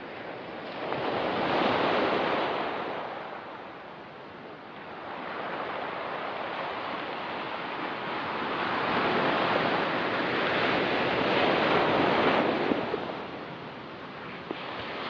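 Ocean surf breaking on a rocky beach in slow swells: one wave surges about a second in and fades, then a longer one builds from about six seconds and washes back near the end.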